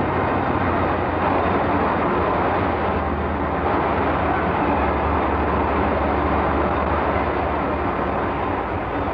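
Steady, continuous heavy-shop machinery noise on an old film soundtrack, with no distinct strokes or impacts.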